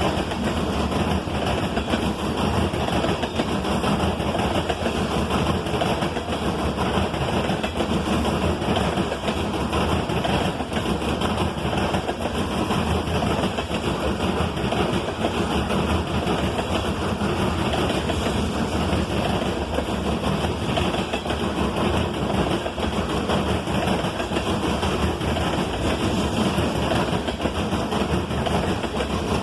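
Loaded coal train rolling past: a long string of heavy freight cars on steel wheels and rail, making a steady, unbroken rumbling noise.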